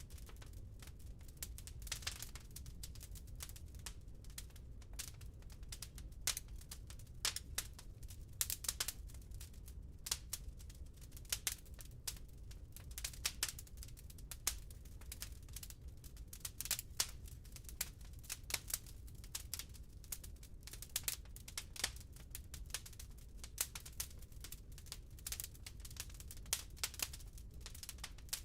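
Wood fire burning in a fireplace: irregular sharp crackles and pops from the burning logs over a low steady rumble.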